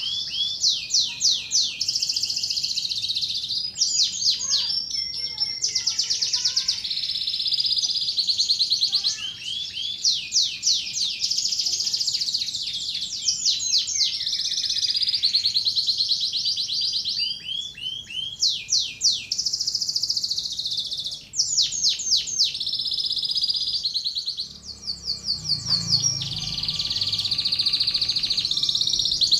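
Domestic canary singing a long, continuous song of rapid trills, fast repeated notes and held whistled phrases, high-pitched, with only brief pauses between phrases.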